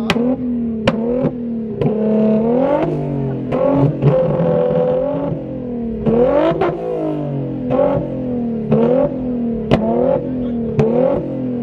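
Infiniti G35 coupe's V6 revved repeatedly while standing, its pitch sweeping up and down, with sharp cracks from the exhaust about every half second to second.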